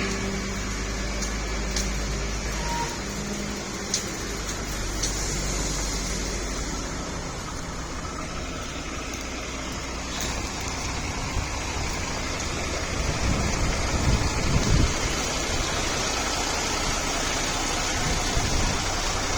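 Truck engine running steadily, with a few faint clicks, and a rougher, louder rumble for a couple of seconds past the middle.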